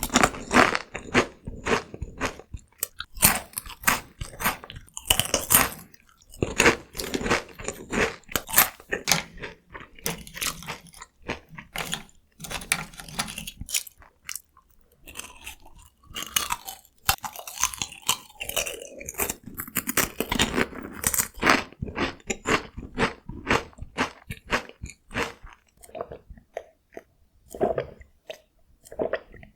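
Close-miked crunching and chewing of Kkokkal-cone, crisp Korean corn cone snacks, bitten and chewed in quick crackly runs that thin out over the last few seconds.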